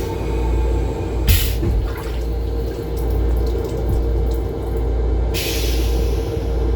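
Restroom sink faucet in a Metro-North M7 railcar running in two short spurts, about a second in and again near the end, over the steady low rumble of the moving train.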